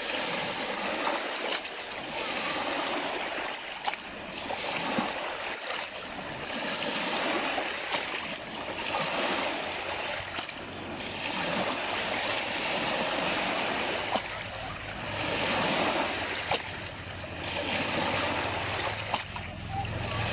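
Small lake waves lapping against the shore, the wash swelling and falling back every two to three seconds, with a few small splashes.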